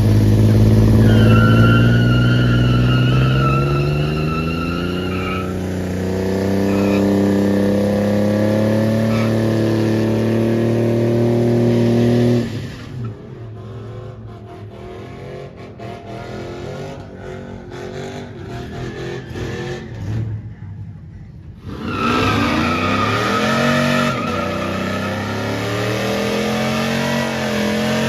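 Vehicle engine revving hard with tires squealing, as in a burnout; the engine note climbs for the first dozen seconds, then drops away to a lower rumble for about ten seconds before the revving and tire squeal start again.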